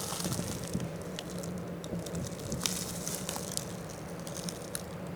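Handling noise on a sensitive microphone: scattered faint clicks and crackles over a steady low hum.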